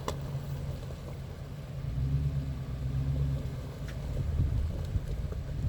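A truck engine running with a steady low hum that grows louder about two seconds in.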